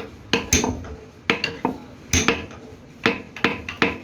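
Repeated sharp metal-on-metal clanks and knocks, each with a short ring, irregularly spaced at about three a second.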